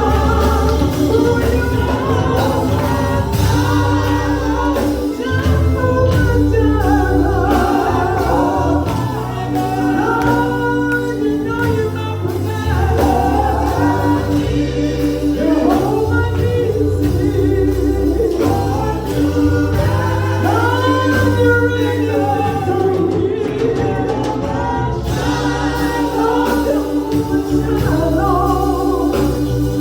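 Gospel music: a choir singing over instrumental accompaniment, with a steady bass line and sustained organ-like chords.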